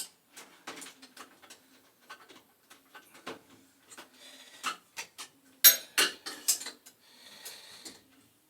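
Light metallic clicks and clinks of hand tools against metal fittings while a boiler's pilot tube connection is being fitted, with a quick run of louder clinks about six seconds in and a few brief scrapes.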